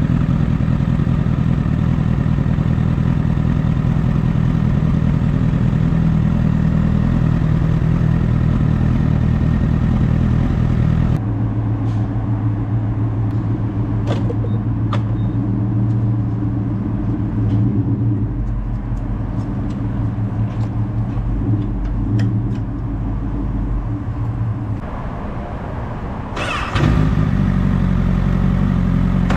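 Honda CBR1000RR inline-four engine running at speed under a steady rush of wind. About eleven seconds in, the rush and engine note drop suddenly to a lower, steadier running note with a few faint clicks. Near the end, engine and wind jump back up loud as the bike accelerates.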